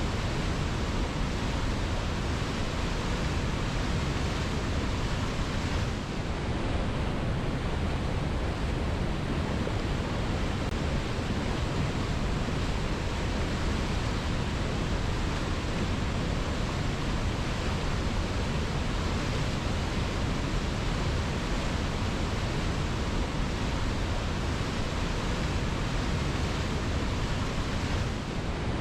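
Waterfall: water pouring steadily over rock into a pool, a continuous even rushing.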